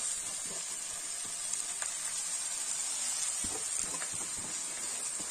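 Potatoes, tomatoes and freshly added fenugreek leaves sizzling steadily as they fry in a pan, with a few soft knocks of a wooden spatula stirring them past the middle.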